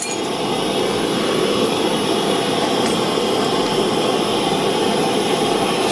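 Silver-soldering torch flame burning with a steady rushing hiss while an eyeglass-frame hinge is being soldered.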